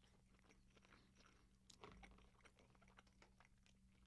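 Faint close-up chewing of a chicken wing: soft wet clicks and small crunches, a little louder about two seconds in, over a steady low electrical hum.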